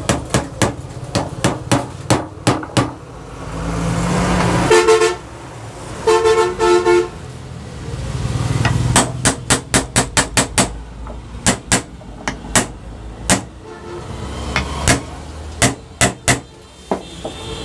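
Runs of sharp metallic clicks, several a second, as the nuts holding the ceiling fan's two body halves are tightened. A vehicle horn honks twice, about five and six and a half seconds in, the second time as a few short beeps, over a low traffic rumble.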